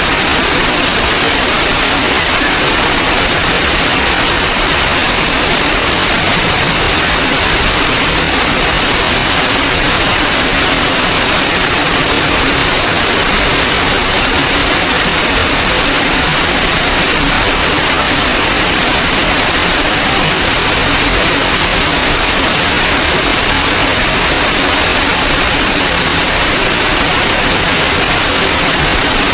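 Small waterfall in a forest stream, water falling and rushing in a loud, steady hiss with no change.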